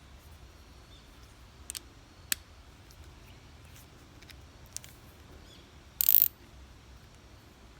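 Hand tools clicking a few times, then a short loud burst of ratchet-wrench clicking near the end.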